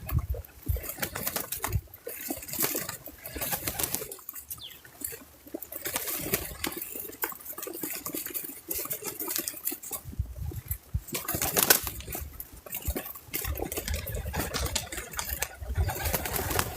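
Birds at a feeder close to the microphone: a busy, irregular stream of wing flutters, scratching and pecking clicks.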